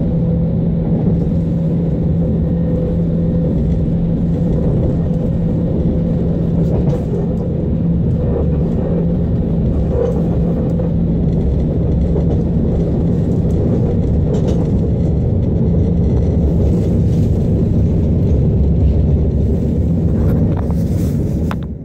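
Interior ride noise of a DB class 425 electric multiple unit running along the track: a steady low rumble with a constant low hum, and a few faint clicks. The sound drops briefly near the end.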